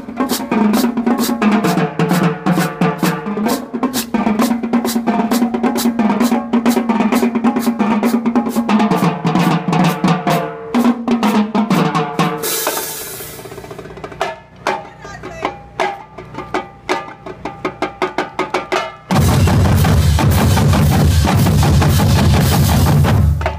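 A high school marching band drumline playing a fast, even beat on snare and bass drums over low held notes that shift between two pitches. About halfway through a cymbal-like crash rings out and the drumming thins out. In the last few seconds a loud, steady rumbling noise takes over.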